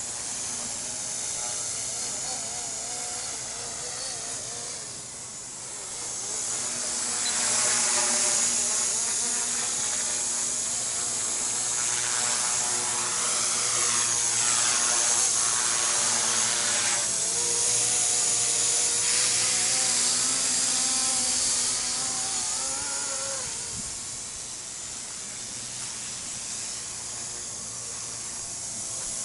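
Micro RC helicopter flying on a 3800KV brushless main motor and a brushed tail motor. Its high motor whine and rotor hiss rise and fall in pitch as the throttle changes, and it is louder through the middle before easing off near the end.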